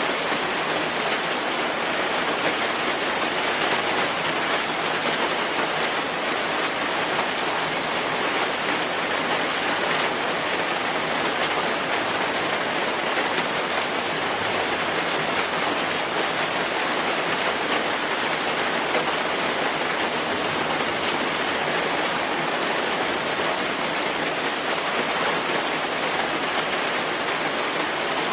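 Steady rainfall: an even hiss of falling rain with fine drop patter, unchanging throughout.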